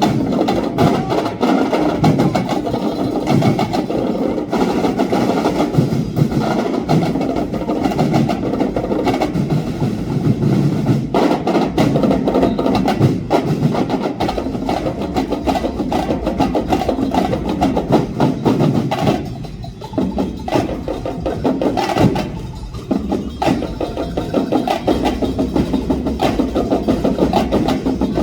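A Dinagyang festival tribe's drum ensemble playing a loud, dense, continuous drumming groove. The drumming thins out briefly about twenty seconds in, then comes back at full strength.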